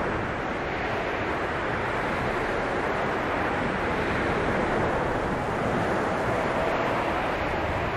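Blizzard wind blowing steadily, a dense rushing noise that swells and eases slowly, with a faint whistle near the end.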